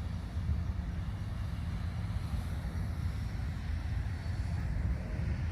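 Steady, deep rumbling noise with no distinct events, like wind or a distant aircraft drone.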